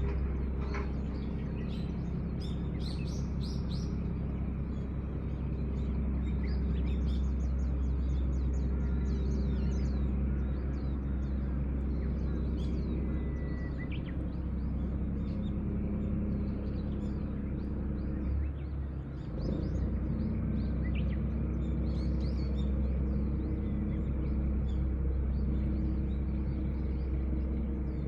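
Small birds chirping and twittering again and again, over a steady low hum that dips briefly about two-thirds of the way through.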